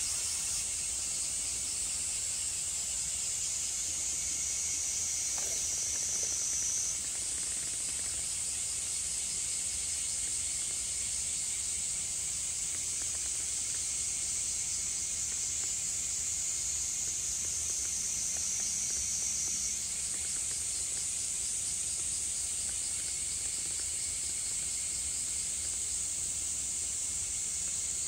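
A steady chorus of shrilling insects, a continuous high-pitched drone whose pitch steps up slightly about seven seconds in and again about twenty seconds in.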